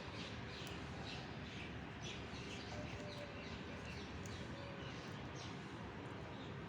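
Small birds chirping repeatedly in short, falling notes, about two a second, over a steady background hiss.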